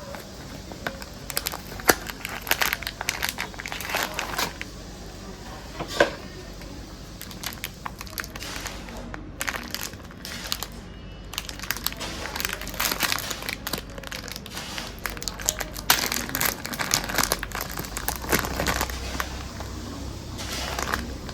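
Plastic snack wrapper crinkling as it is handled and pulled open, in many irregular sharp crackles.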